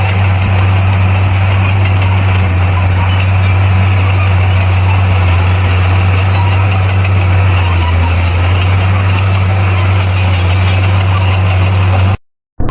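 Heavy diesel construction machinery, such as a bulldozer or dump truck, with its engine running steadily as a deep, even drone. The sound cuts out abruptly for about half a second near the end.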